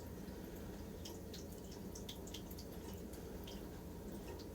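Faint, scattered light clicks of small tumbled crystals being handled and touching one another, over a steady low hum.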